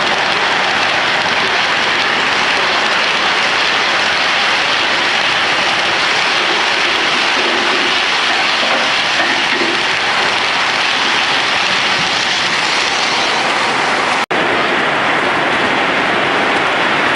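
Model train running on a layout: a steady rushing rattle of wheels on track, with a momentary dropout about fourteen seconds in.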